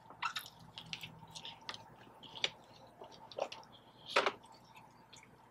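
A person chewing and biting into a Popeyes fried sandwich: irregular wet clicks and crunches, the loudest about four seconds in.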